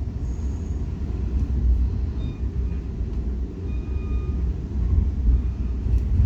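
A Metra commuter train rolling along the track, heard from inside the coach: a steady low rumble with a few faint, brief high squeaks.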